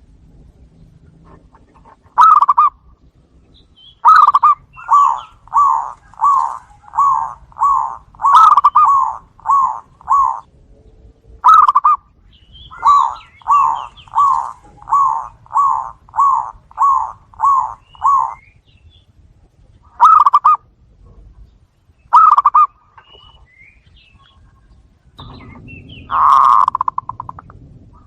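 Zebra doves (perkutut) cooing: short, pulsing coo notes repeated in quick runs of about two a second, broken by single notes and pauses. A louder, rougher call comes near the end.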